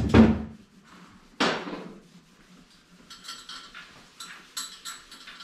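Metal tools or parts clanking: two sharp knocks at the start, another about a second and a half in that rings briefly, then light rattling and clinking.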